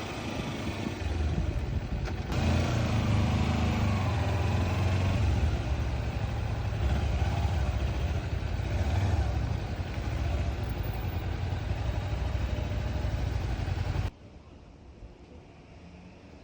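Motorcycle engine running on the move, with wind noise over it, as the bike climbs a hill; it drops off suddenly to a much quieter sound near the end.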